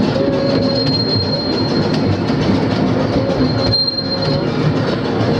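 Carriages of a 12¼-inch gauge miniature steam railway running along the track, heard from on board: a steady rumble and clatter of wheels on rail, with a thin high wheel squeal as the train takes a curve.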